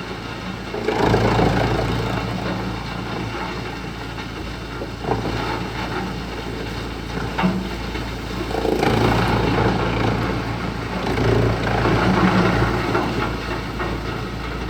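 Wood chipper running steadily with a low engine hum, growing louder about a second in and again later on, with a couple of short sharp knocks in between.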